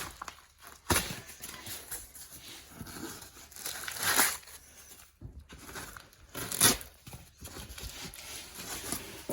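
Irregular rustling, scraping and crinkling as old flooring debris is torn up and handled, with a knock about a second in and louder rustles near the middle and about two-thirds of the way through.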